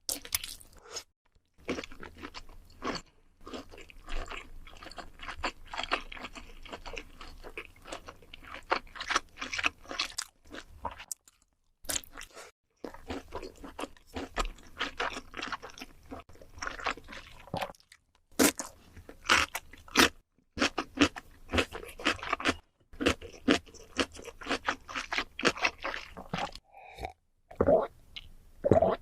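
Close-up chewing and biting of crunchy food, many short wet crunches in quick succession with a few brief pauses. A few softer, lower mouth sounds come near the end.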